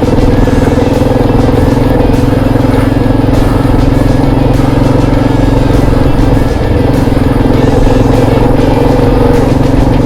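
Motorcycle engine running steadily under way on a dirt trail, its loudness dipping briefly about six and a half seconds in.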